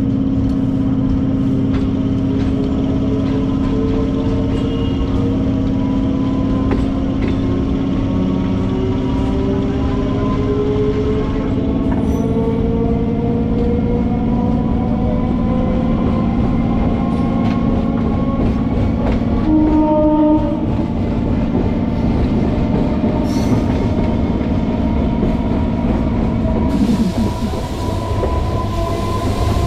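Suburban electric multiple-unit train accelerating away from a station, heard from its open doorway: a steady hum under a motor whine that slowly rises in pitch, with wheel clicks on the rails. A short horn blast sounds about twenty seconds in.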